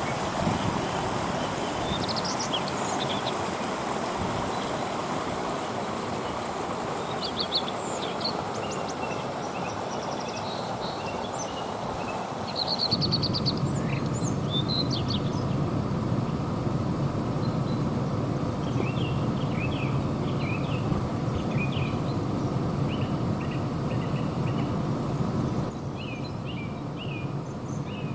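Water running over a small man-made waterfall, a steady rush, with songbirds chirping and trilling over it. The rushing changes abruptly about halfway through, becoming deeper, and again near the end.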